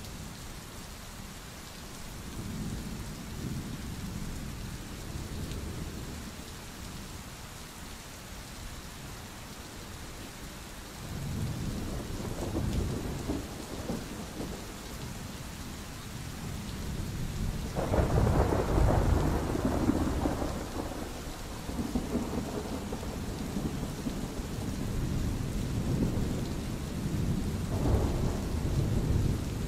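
Steady rain falling through a thunderstorm, with rolling thunder that swells several times. The strongest rumble comes about 18 seconds in and sharpens suddenly before it rolls away.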